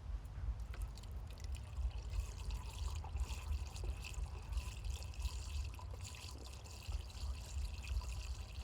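Windshield washer fluid being poured into a newly fitted windshield washer reservoir, a steady trickling pour, with a low steady rumble underneath.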